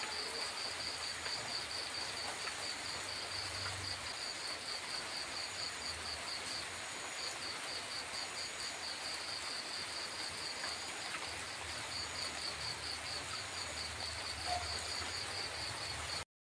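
Steady rain falling, with an insect chirping in a fast, even high-pitched pulse over it. The sound cuts off suddenly near the end.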